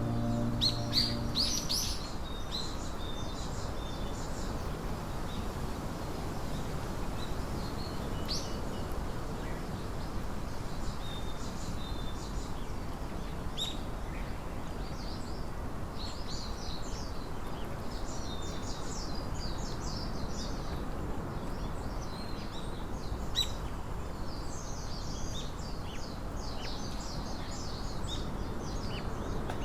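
Small songbirds chirping and trilling, many short calls throughout, over a steady low background hiss.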